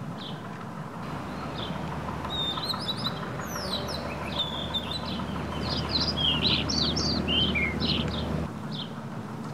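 Small birds chirping: many short, quick calls overlapping throughout, over a low steady rumble that starts about a second in and stops near the end.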